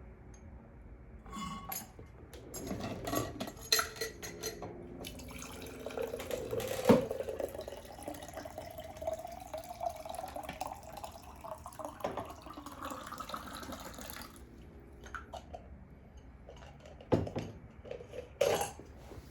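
Liquid being poured or running into a container, its tone rising slowly over several seconds, with clinks and knocks around it.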